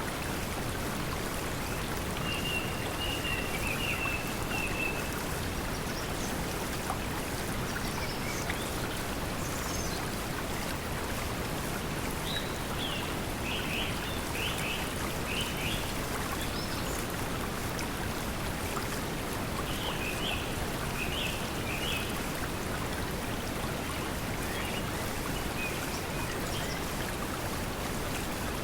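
Steady pink noise blended with flowing water. Short bird chirps come through three times: a string of notes a few seconds in, a burst of quick strokes around the middle, and a shorter burst later.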